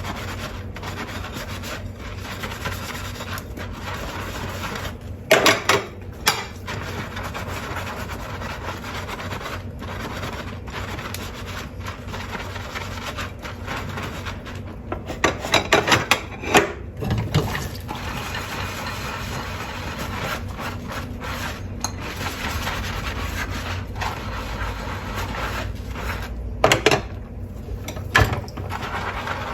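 Dishes being hand-washed: a sponge scrubbing steadily in short strokes, with brief bursts of dishes clinking and clattering about five seconds in, mid-way through, and near the end.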